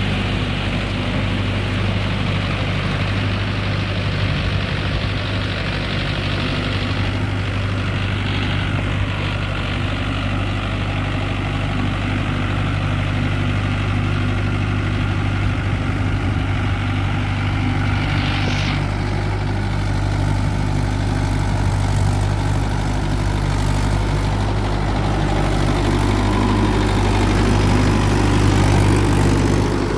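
Mahindra Yuvo Tech+ 585 tractor's diesel engine running steadily with an even, low drone.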